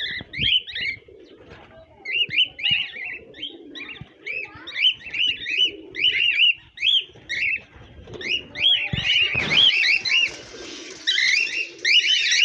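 A group of small birds chirping in quick, repeated, arched calls, with low cooing underneath.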